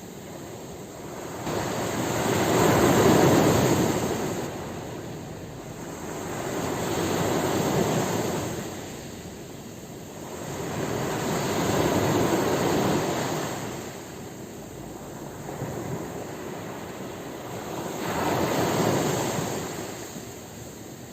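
Ocean surf breaking on a shore, rising and falling in four long swells about five seconds apart.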